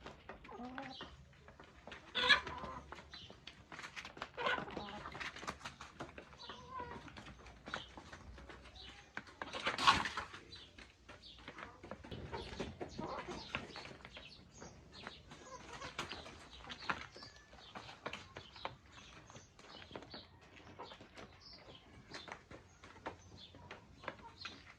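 Chickens clucking, with many short scattered calls and two louder calls, about two seconds in and about ten seconds in.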